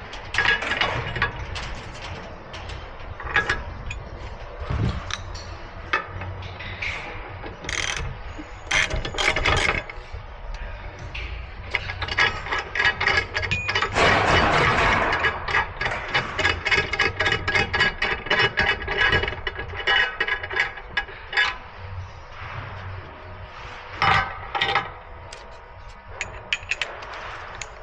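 Hand ratchet clicking in quick runs, mixed with metal clinks and knocks of hand tools.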